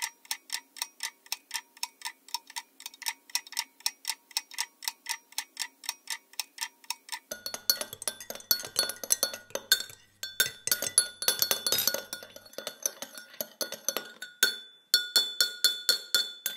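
Steady mechanical ticking, about four ticks a second. About seven seconds in it gives way to irregular clinks of porcelain cups and saucers, each with a short ringing tone, as cups are handled at an espresso bar.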